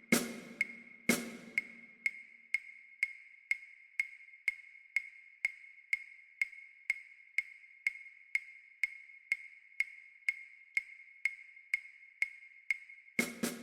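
Metronome clicking steadily about twice a second with a bright wood-block-like tick, through a long rest in a snare drum part. A few snare drum strokes sound in the first second and a half, and snare playing starts again near the end.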